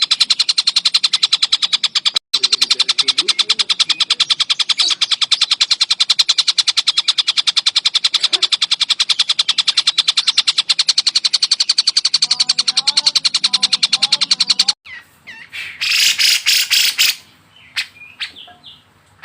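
Recorded bird song: a fast, even trill of rapidly repeated high notes that runs for about fifteen seconds, with one short break about two seconds in. It stops suddenly, and then comes a harsh, buzzy burst and a few scattered chirps.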